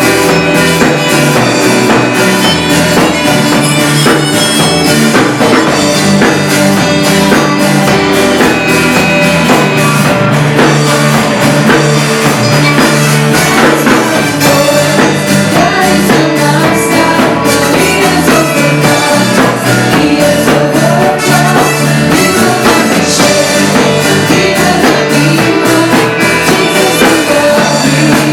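A live band playing loudly at rehearsal, with drum kit and guitar, and singing over it.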